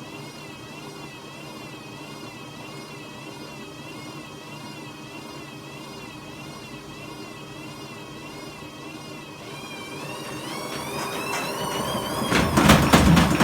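WMA50 washing machine with its ballast weights removed and very bad drum bearings: a wavering whine over the motor while the drum turns. About ten seconds in, the pitch rises as the spin speeds up and the sound gets louder. Near the end, heavy knocks come as the unbalanced machine bangs about.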